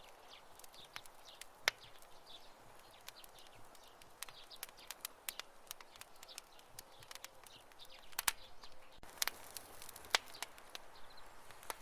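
Wood campfire burning and crackling: a soft steady hiss of flames broken by irregular sharp pops and snaps, a few louder pops standing out about a second and a half in and again around eight to ten seconds in.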